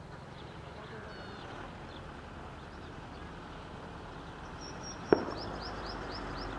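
Steady low outdoor rumble with birds chirping. About four and a half seconds in, a bird gives a quick run of about eight high, sweeping chirps. A single sharp click sounds in the middle of that run.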